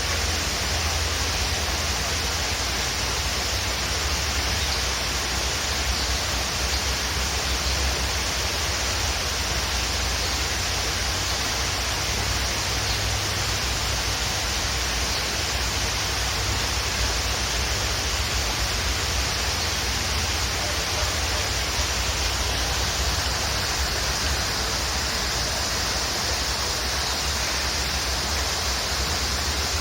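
Waterfall rushing steadily, an unbroken hiss of falling water over a low rumble.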